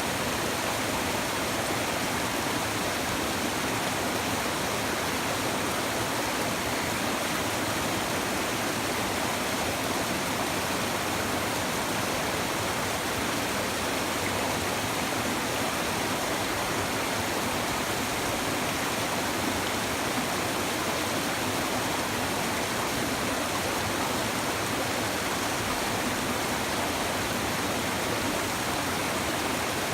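Shallow river babbling over stones, a steady, even rush of flowing water.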